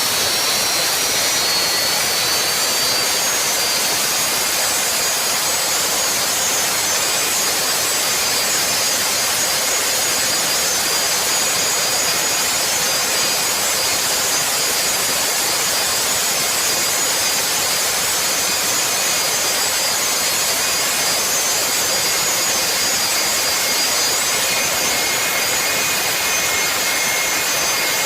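Jet engine running steadily: a loud rushing blast with a high turbine whine that rises slightly in the first few seconds and then holds.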